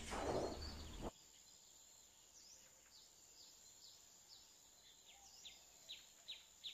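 Faint room noise cuts off abruptly about a second in, then near silence. Faint, high bird chirps come in, short falling notes that grow steadier toward the end, about two or three a second.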